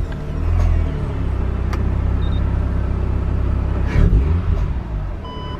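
Turbocharged Mazda RX-8's rotary engine idling steadily through an aftermarket muffler, with a short surge in engine sound about four seconds in.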